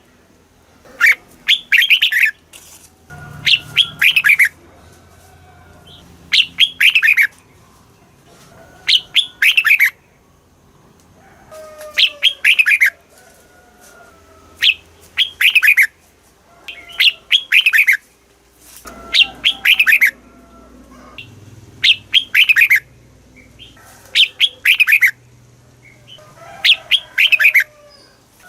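Red-whiskered bulbul singing, repeating a short, loud phrase of quick notes that sweep downward, about every two to three seconds.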